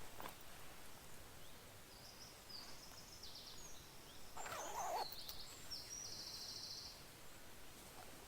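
Small songbird singing: several high, fast trilled phrases, one after another. A brief, louder and lower noise comes about halfway through.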